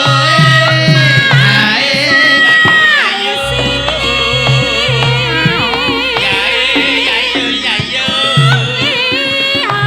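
A Javanese song sung with vibrato over a gamelan-and-dangdut band playing slowly, with hand-drum beats; a deep bass note comes in a few seconds in.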